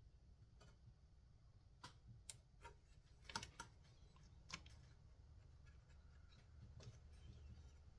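Faint, scattered clicks and light metallic taps of small parts and a hand tool being handled while working on a chainsaw's recoil starter, with a cluster of sharper clicks in the middle and one more near the end.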